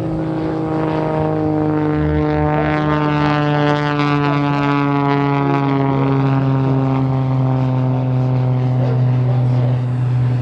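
Propeller plane's piston engine running steadily at high power, its pitch sliding slowly downward as the aircraft passes.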